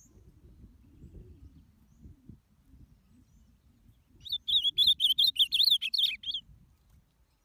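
Ultramarine grosbeak (azulão) singing one quick, warbling song phrase of about two seconds, starting a little past the middle.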